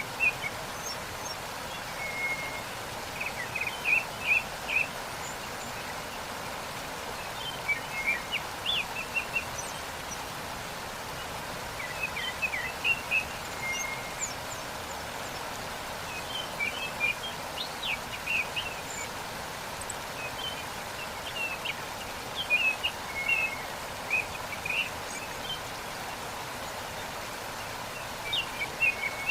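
Steady rushing of a waterfall, with small birds chirping in short bursts every few seconds over it.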